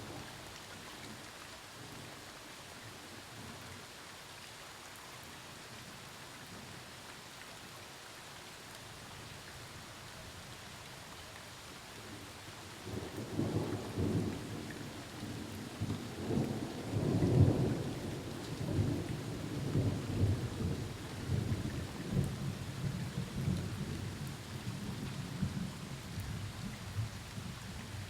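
Steady rain falling through a thunderstorm, then about halfway through a long peal of thunder rolls in, rumbling and crackling in waves, loudest a little past the middle, and slowly fades under the rain.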